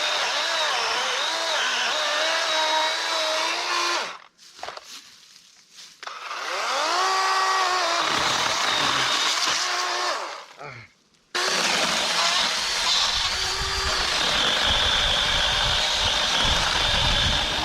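Battery-powered chainsaw cutting a dead tree, its electric motor whining under load. The saw stops twice, about four seconds in and again around ten seconds, then runs back up to speed and cuts on.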